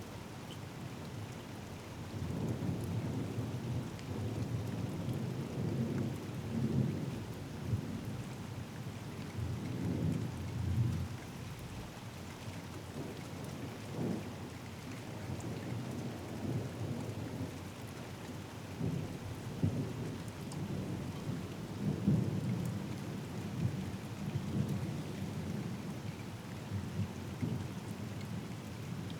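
Steady rain during a thunderstorm, with low thunder rumbling and rolling from about two seconds in, swelling and fading in waves through most of the stretch.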